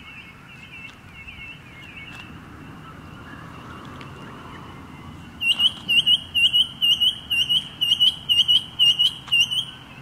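Noisy miner calling: a run of short, clear whistled notes, about three a second, that turns loud about five and a half seconds in. Fainter calls of the same shape come early on.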